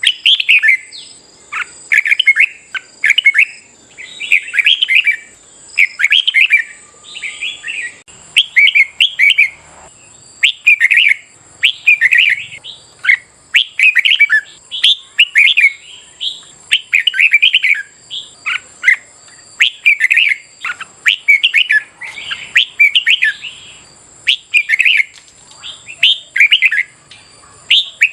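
Red-whiskered bulbul singing: short, loud warbling phrases repeated about once a second with brief gaps between them.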